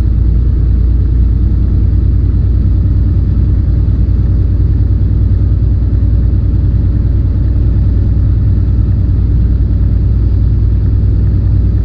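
Steady low rumble of a semi-truck's diesel engine and road noise as heard from inside the cab while driving.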